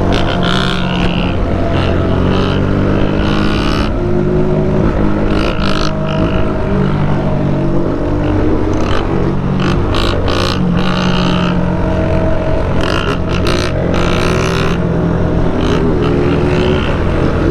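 Several motorcycle engines running together: a steady low idle underneath, with other bikes revving so that their engine notes rise and fall and overlap throughout.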